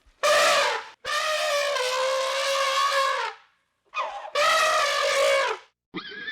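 Elephant trumpeting: a series of loud, pitched calls, the second one held for more than two seconds.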